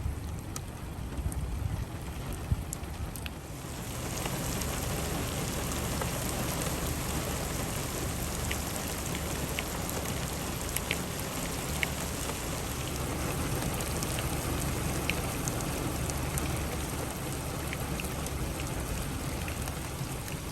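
Heavy rain from a severe thunderstorm, building to a steady, dense downpour about four seconds in, with scattered drops ticking sharply on nearby surfaces. Gusty wind rumbles low underneath.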